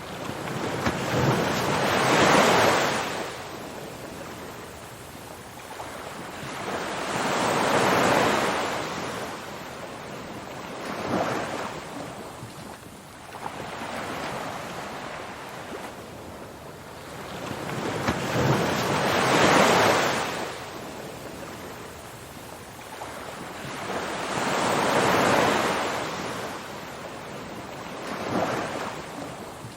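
Ocean waves breaking and washing up, the surf swelling and fading every few seconds over a steady hiss.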